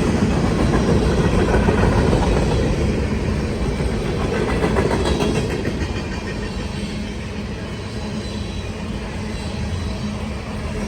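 Freight cars of a CSX manifest train rolling past, steel wheels clattering over the rails in a steady rumble that eases off slightly about halfway through.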